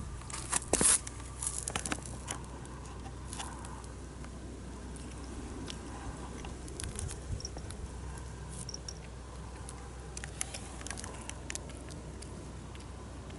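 Cat grooming itself, its tongue licking fur in a run of small wet clicks, loudest and densest in the first two seconds, then sparser.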